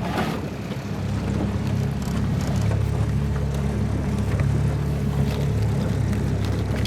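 Small boat motor running steadily, its hum picking up about a second in.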